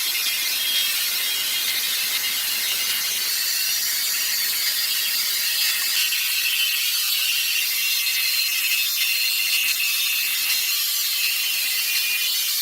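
Sawmill machinery running: a steady, high-pitched mechanical noise that does not change throughout.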